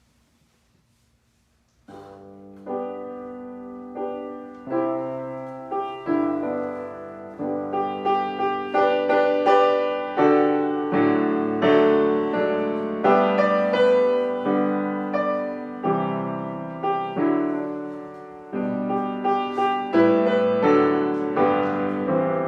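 Solo piano: after about two seconds of near silence, a lively piece of struck chords and repeated notes begins, growing louder over the first several seconds and carrying on.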